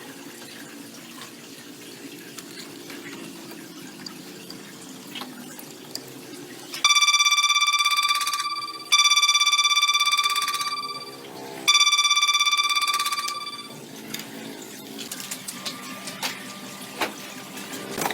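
A high-pitched ringing tone sounds three times, each ring about two seconds long and fading away, after a few seconds of quieter steady noise.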